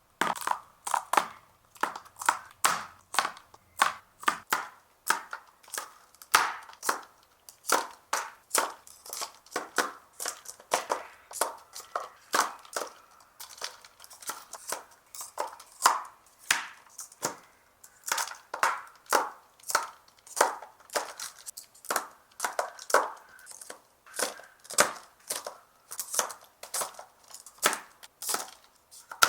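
A long run of sharp plastic clicks and taps, about one to two a second, from handling an acrylic marker set and its packaging.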